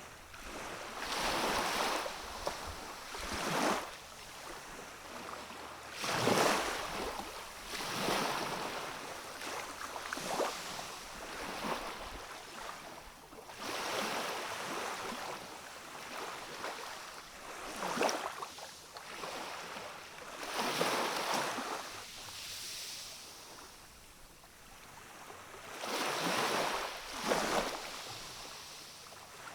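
Small waves of a calm sea washing onto a rocky shore, in irregular swells of hissing surf every two to four seconds, with a quieter lull about two-thirds of the way in.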